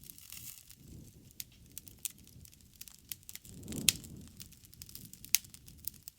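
Wood bonfire crackling, with scattered sharp pops and snaps over a low rumble. The loudest snap comes about four seconds in, as the rumble swells, and another comes a second and a half later.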